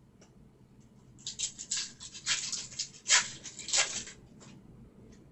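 Plastic trading-card pack wrapper crinkling and tearing as a pack is opened, with cards rubbing together. The crackles come in a cluster of quick bursts from about a second in until about four seconds in.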